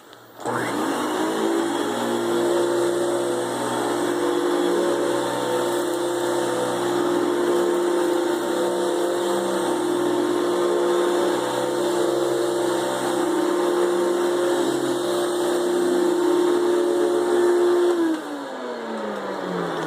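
Hoover Celebrity vacuum cleaner's motor switched on, spinning up quickly and running with a steady whine and rushing air, then switched off near the end and winding down with a falling pitch.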